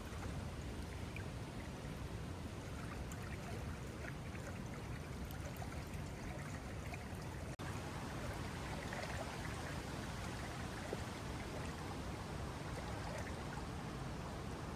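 River water flowing steadily, with a momentary break about halfway through.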